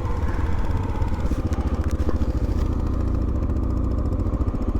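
Motorcycle engine running at low speed with a steady, evenly pulsing exhaust beat.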